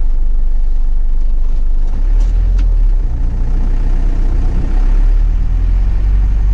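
Nissan Cabstar truck's diesel engine running steadily just after starting, with no unusual noises. About two seconds in, its low note gets stronger.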